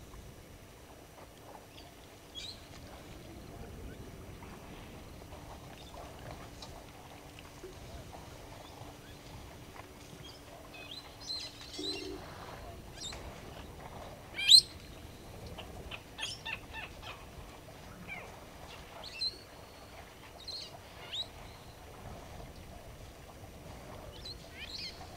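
Wild birds calling around a bushveld waterhole: scattered short chirps and tweets, one much louder chirp about halfway through.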